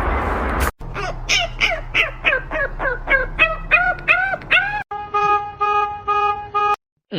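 An animal's honking calls, a quick string of about three short arching calls a second, followed after a cut by a run of shorter, steady-pitched squeals.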